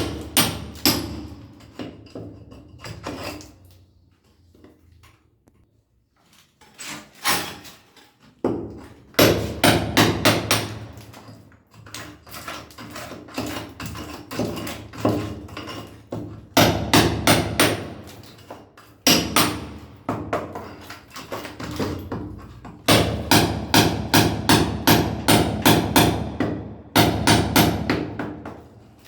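Sledgehammer striking a chisel to break a masonry wall: runs of sharp, rapid hammer blows, several a second, broken by short pauses, with a quieter lull a few seconds in.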